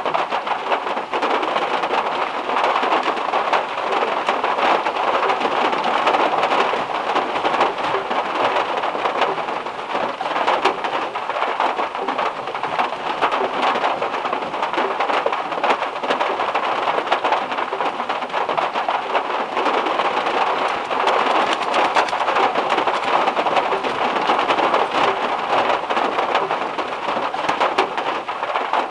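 Heavy rain drumming on the metal roof of a VW Beetle, heard from inside the car: a steady, dense patter of drops like white noise.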